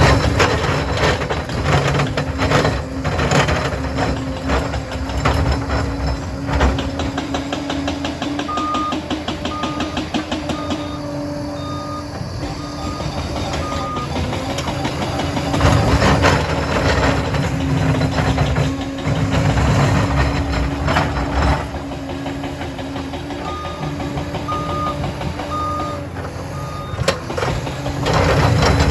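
Liebherr 746 crawler dozer working, its diesel engine running steadily under load with frequent clanks and knocks from the tracks and blade. Its reversing alarm beeps in two runs of evenly spaced beeps, about a third and again about four fifths of the way through, as the dozer backs up.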